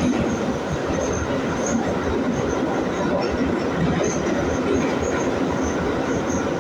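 An 81-502 metro train running at speed through a tunnel, heard from inside the car: a steady rumble of wheels on rail, with short high squeaks coming and going.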